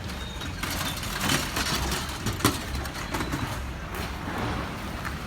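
Heavy machine engine running with a low rumble, mixed with scattered knocks and clanks and one sharp bang about two and a half seconds in.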